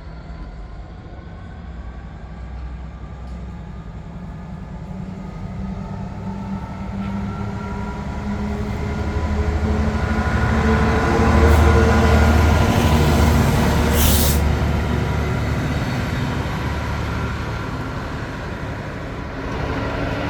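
Two Class 66 diesel locomotives running light, their EMD two-stroke V12 engines droning as they approach, growing louder to a peak about halfway through and then fading as they pass. A short hiss comes about two-thirds of the way through.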